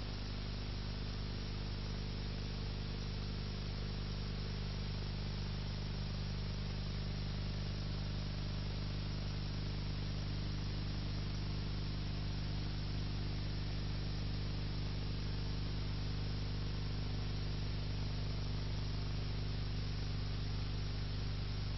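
Steady hiss with a low electrical hum and its overtones: the background noise of the recording, no other sound.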